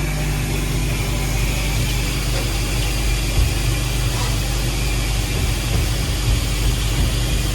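A vehicle engine idling steadily under an even hiss.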